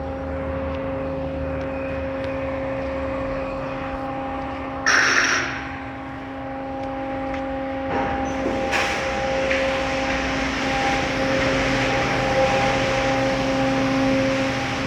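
Automatic car wash machinery running with a steady electric hum. About five seconds in there is a short, loud hiss, and from about eight seconds a steady rushing hiss of spray builds and carries on.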